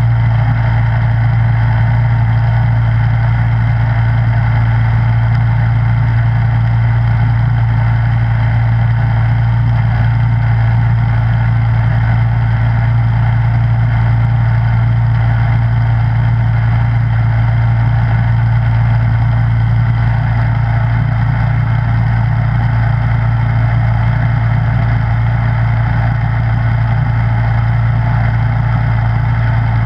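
Snowblower engine running steadily at a constant pitch, a loud even hum with no change in speed.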